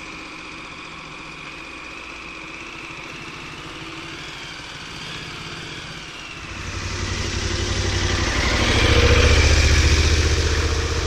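Motorcycle engine heard through a foam- and dead-cat-covered helmet microphone, running fairly quietly at first, then getting louder about six seconds in, with more engine and wind noise, before easing off slightly near the end.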